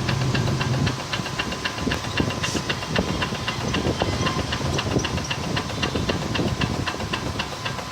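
Micro CNC machine's 110 W DC servo motors driving the axes in a fast test move. There is a fast, evenly spaced ticking over a steady high whine, and a low hum drops out about a second in.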